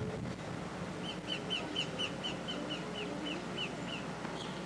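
A bird calling a quick series of short, down-slurred notes, about four a second, for about three seconds, over steady outdoor background noise.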